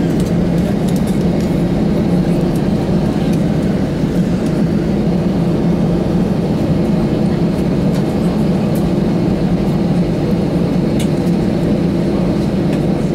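Steady low hum of an Airbus A320's cabin on the ground after landing, from the idling engines and air-conditioning, with a few faint ticks.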